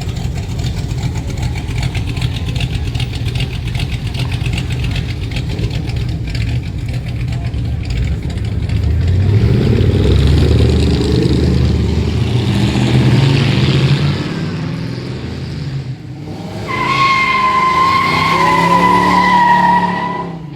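Engines of classic American cars rumbling steadily as they cruise past, with an engine revving up about halfway through. Near the end a long steady high tone sounds for about three and a half seconds.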